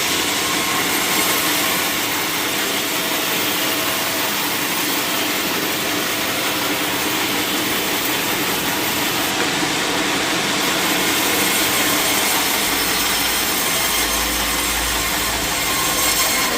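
Sawmill saw cutting steadily through a log, a continuous machine whine and cutting noise.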